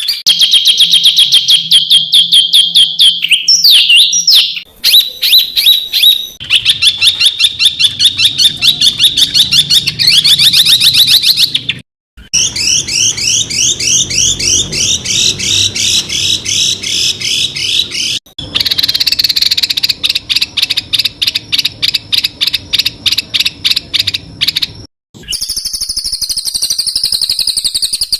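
Songbird masteran recording: fast strings of sharp, repeated high chirps, several notes a second, the rapid-fire 'tembakan' calls used to train contest songbirds. The calls come in spliced sections that change and break off abruptly several times.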